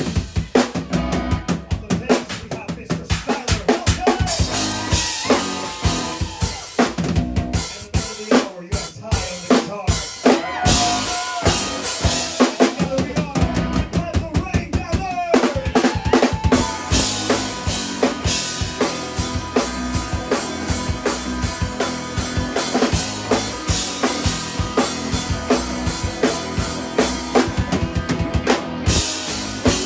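Live instrumental rock band playing, with the drum kit out front: a busy run of kick and snare hits under sustained, sliding pitched instrument lines.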